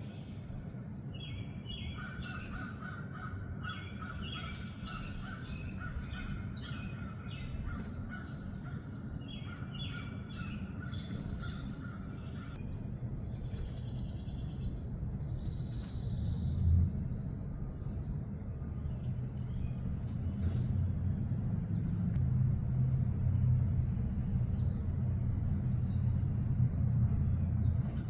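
Birds calling over and over for about the first twelve seconds, over a steady low rumble that grows louder in the second half.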